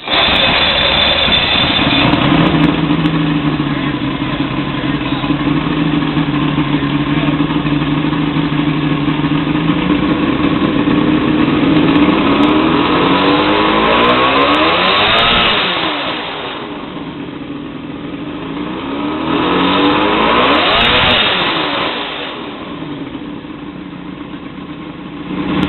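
Boat's inline six-cylinder engine with three carburetors running steadily, revved up twice and dropping back each time. The engine has just been brought back to running after sitting unused for ten years.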